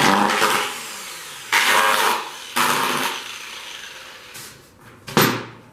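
Black & Decker 650 W angle grinder with a wire brush fitted, switched on four times in a row. Each time it gives a sudden burst of sound that fades within about a second rather than running steadily: the repaired grinder is not working.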